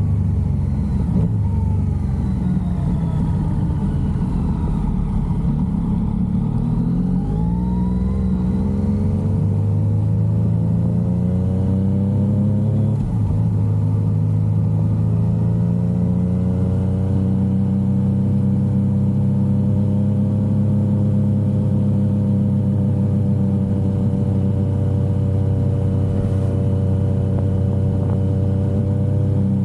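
Yamaha XSR900's inline three-cylinder engine on the move. Its note falls at first, climbs as the bike accelerates, breaks briefly about halfway through for a gear change, then holds steady at cruising speed.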